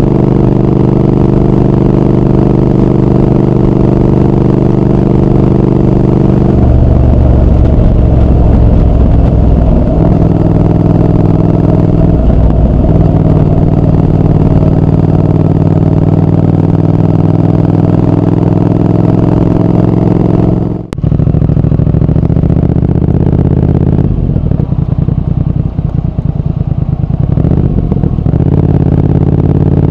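Triumph Speed Twin 1200's parallel-twin engine and exhaust running under way. The engine note holds steady, then changes pitch several times as the throttle and gears change. There is a sudden short break about two-thirds through, and the note turns choppy for a few seconds after it.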